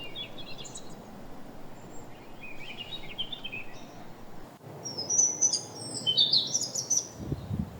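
Small songbirds singing in three short bursts of quick, twittering chirps over a steady outdoor background noise. A few low knocks come in near the end.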